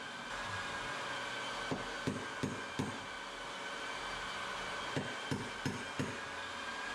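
Hammer driving nails into a wooden stair tread: two runs of four quick blows a few seconds apart, over a steady background hum.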